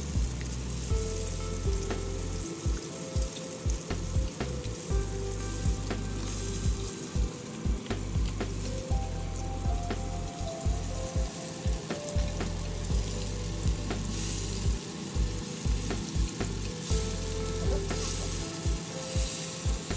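Oil sizzling steadily in a frying pan as a flour-coated cod fillet fries, under background music with a steady pulse.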